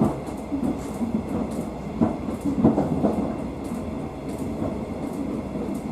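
Train running along the track.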